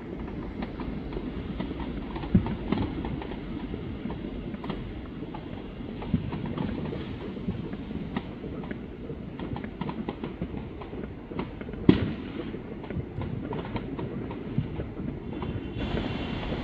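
Fireworks going off in a dense, continuous run of bangs and crackles, with two louder bangs about two seconds in and again near twelve seconds.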